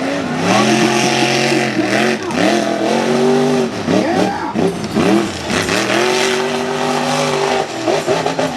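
Mega truck's engine revving hard under throttle, its pitch climbing and dropping back again and again as the driver blips and holds the gas.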